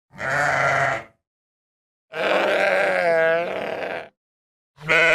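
Sheep bleating three times: a call of about a second, a longer wavering bleat of about two seconds, then a short one near the end.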